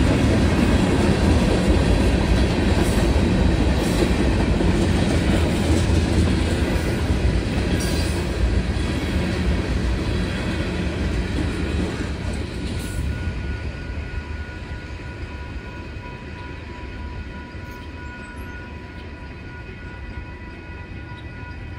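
Freight train of tank cars and covered hoppers rolling over a road crossing, its wheels rumbling and clacking on the rails. The rumble fades away as the end of the train passes, about halfway through. The crossing's warning bell then rings on by itself.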